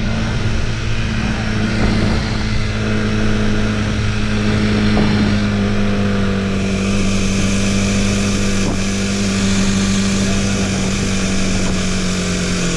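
Motorcycle engine running at a steady, even speed under way, with rushing wind noise; the engine note drops slightly near the end.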